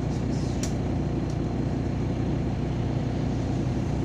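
MAZ-203 city bus under way, heard from inside: a steady low engine and road rumble, with a couple of short clicks in the first second or so.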